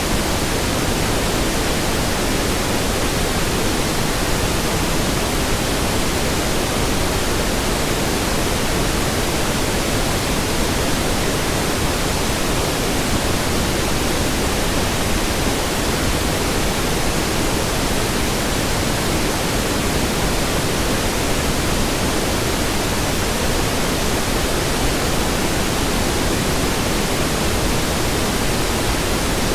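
Steady pink noise: an even, unchanging hiss spread across all pitches, heavier in the low end.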